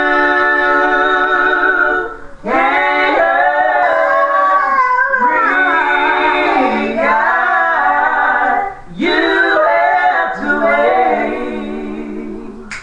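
A woman singing a gospel line unaccompanied. She holds a long note, runs through wavering melismatic turns, holds another note about nine seconds in, then trails off softer near the end.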